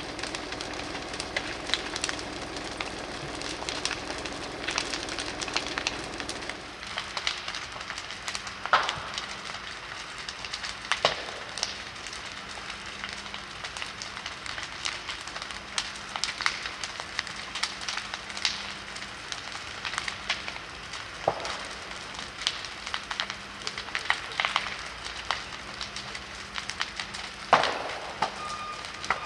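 A burning wooden stable crackling steadily, with several louder sharp pops and cracks of burning timber. A mechanical drone sounds underneath and stops about six seconds in.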